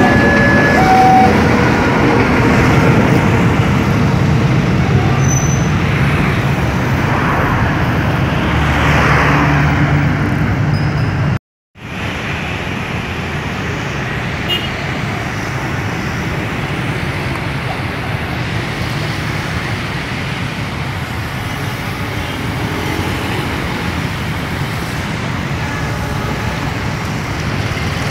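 A train rolls through a level crossing with a steady rushing and rumbling, and the crossing's loudspeaker alarm sounds its two-tone warning for about the first second. After a sudden break about halfway in, steady road traffic follows, with motorcycles and cars going past.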